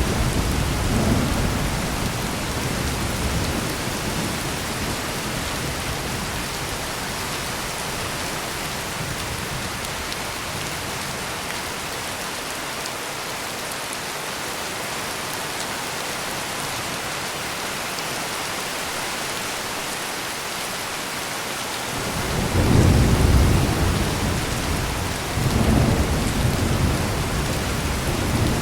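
Heavy rain pouring steadily. A low rumble of thunder dies away over the first few seconds, and about three quarters of the way through a new roll of thunder swells up twice and is still rumbling at the end.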